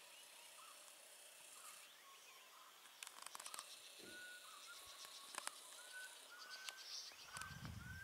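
Faint bird calls: a few chirps, then from about halfway a bird repeating short, slightly rising whistled notes under a second apart. A few clicks, and a low rumble near the end.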